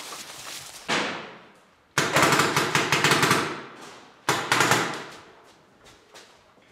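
Paintball markers firing rapid strings of shots in three bursts: a short one about a second in, a long dense one about two seconds in, and another just after four seconds, each dying away in an echo.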